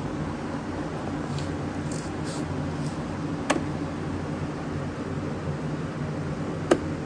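A steady low mechanical hum, with two sharp clicks about three seconds apart.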